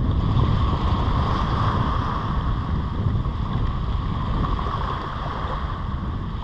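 Steady wind buffeting the microphone over the wash of surf on the beach.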